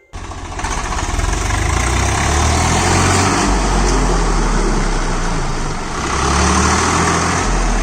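Swaraj 744 FE tractor's diesel engine running steadily, growing louder about a second in and easing off briefly near the six-second mark before picking up again.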